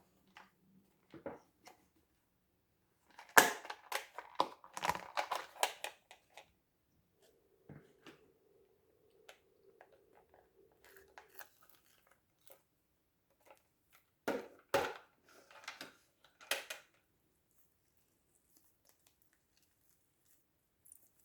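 Crinkling and crunching handling noises, in two clusters of short crackles about four and fifteen seconds in, with scattered clicks between them. A faint steady tone runs through a quiet stretch in the middle.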